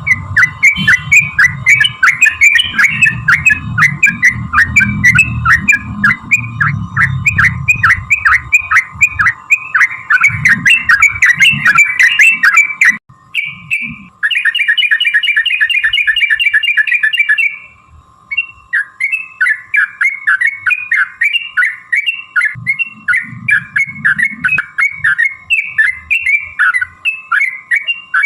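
Yellow-vented bulbul (trucukan) singing a long run of fast, loud chirping notes, several a second. The song breaks off briefly, then a rapid rolling trill lasts about three seconds before the chirping resumes. A low rumble sits under the song in the first nine seconds.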